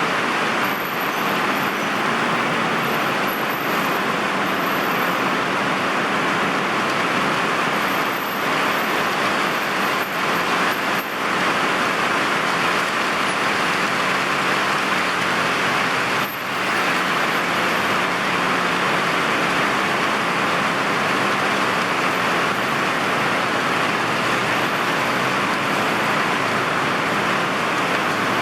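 Heavy rain pouring down in a steady hiss, mixed with the sound of road traffic.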